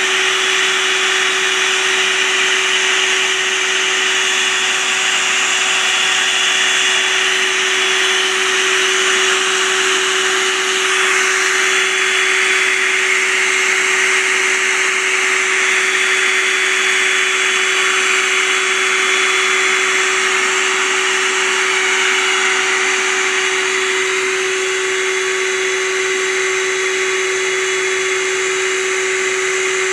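A vacuum motor running steadily: a constant hum over a broad rush of air.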